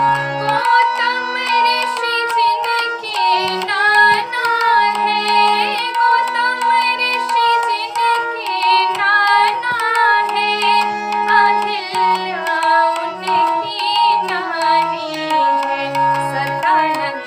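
Hindu devotional bhajan to Hanuman: a woman's voice sings a wavering, ornamented melody over keyboard notes stepping in the bass, a steady held drone note and light hand percussion.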